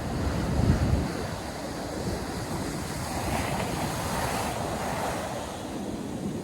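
North Sea surf breaking and washing ashore, a steady rush of waves with wind buffeting the microphone. A low gust rumbles about half a second in, and a wave's hiss swells and fades around the middle.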